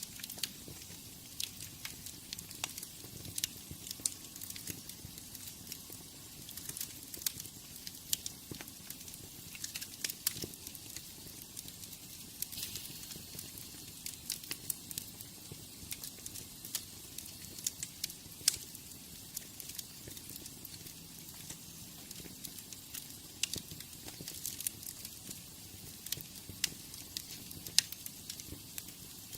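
Wood fire in a fireplace crackling: irregular sharp pops and snaps over a steady soft hiss of the flames.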